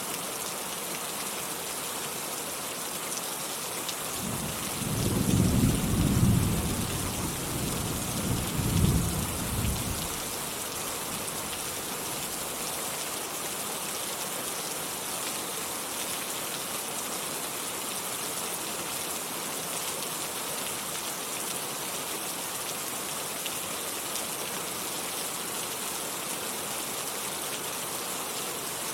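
Steady heavy rain hissing, with a roll of thunder rumbling in about four seconds in, swelling twice and dying away after about six seconds.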